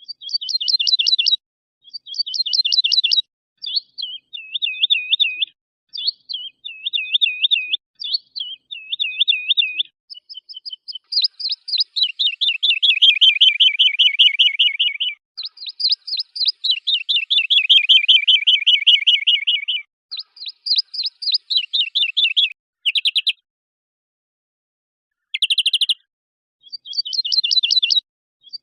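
Recorded cage-songbird song assembled as a mix: short fast trilled phrases repeated one after another, then two long rolling trills that slide down in pitch. Each phrase stops abruptly into dead silence, as in edited clips, with a longer silent gap a little before the end.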